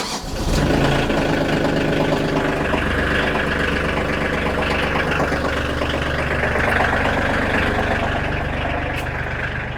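Kioti compact tractor's diesel engine, started for warming up, idling steadily. The sound comes in suddenly at the start and then holds even.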